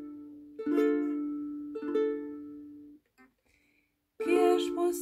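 Plucked string instrument strumming chords: three separate chords, each left to ring and die away, then a pause with a small click, and steadier, louder strumming starting about four seconds in.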